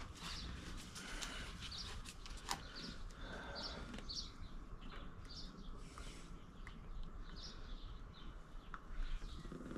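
Faint chirping of small birds, short high calls repeating every half second or so, over a low steady background hum, with a few light knocks.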